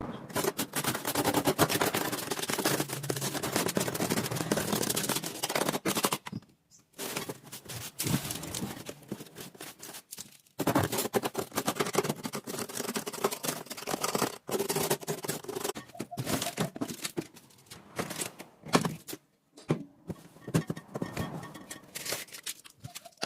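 Rapid clicking and clattering of household items being handled during fridge cleaning, with a few short breaks.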